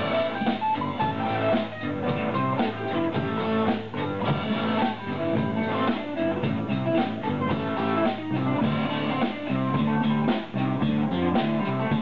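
Rock band playing live: guitars strumming over a drum kit.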